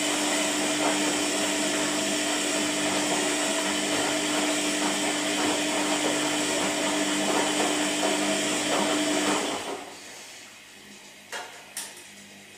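Washing machine running with a steady motor whine that cuts off about nine and a half seconds in, followed by two short clicks.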